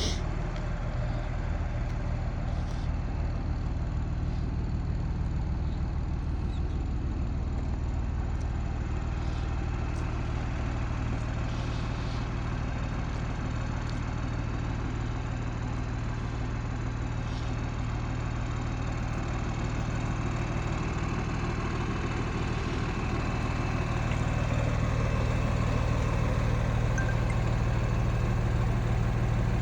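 Truck diesel engine, a Cummins ISC in a 2005 Peterbilt 330, idling steadily. It gets a little louder in the last few seconds.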